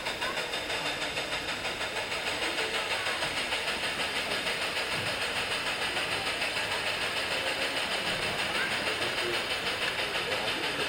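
HO-scale model steam locomotive's sound system giving a steady, hissing chuff at about four beats a second.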